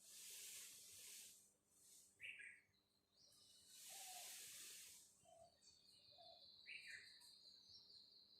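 Faint outdoor ambience: two rustling bursts of hiss, with short falling bird chirps between them. A steady high whine comes in during the second half.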